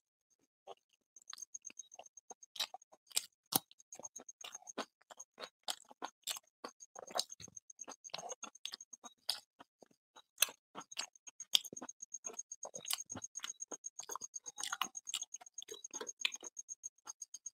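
Close-up mouth sounds of a man eating luchi with curry by hand: an irregular run of wet chewing clicks and lip smacks. A faint, fast high-pitched ticking runs underneath.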